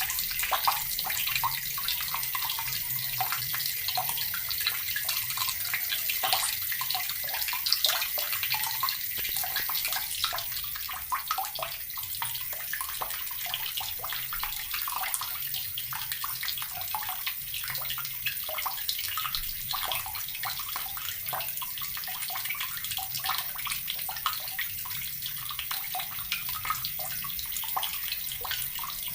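Water running steadily from a tap and splashing into water below, with a dense, even patter of small splashes.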